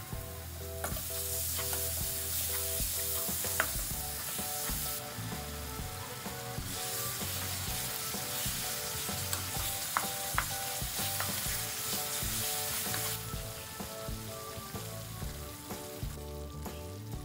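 Chili paste with freshly added sugar sizzling in a frying pan as it is stirred with a wooden spoon, the sizzle swelling in two long stretches. A few sharp knocks of the spoon against the pan cut through it.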